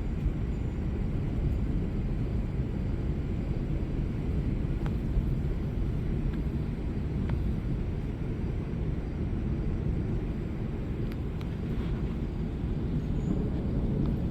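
Steady low rumble of a thunderstorm, swelling slightly now and then, with a few faint clicks.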